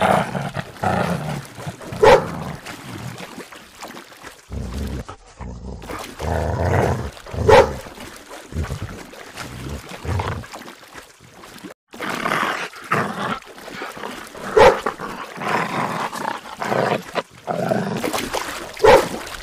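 Pit bull-type dogs barking and growling in play, with four loud, sharp barks standing out among lower, rougher sounds.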